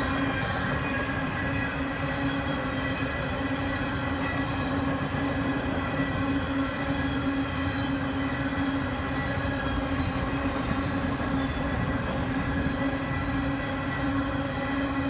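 Canadian Pacific freight train rolling past, a steady rumble of wheels on rail with a constant droning hum over it.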